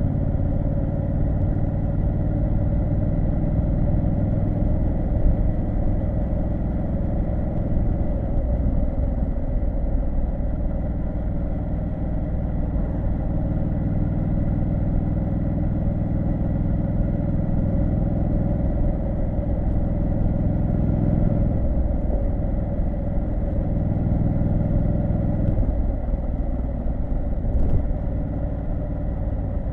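Triumph Street Scrambler 900's parallel-twin engine running under way, its note shifting a few times as the throttle and gears change, about a third of the way in and twice more near the end.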